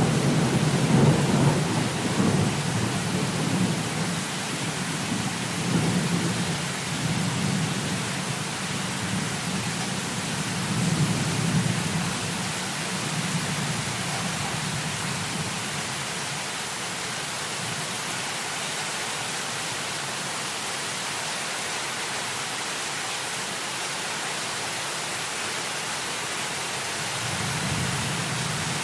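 Heavy rain falling steadily, with low rolling rumbles of thunder that swell several times in the first dozen seconds and again near the end.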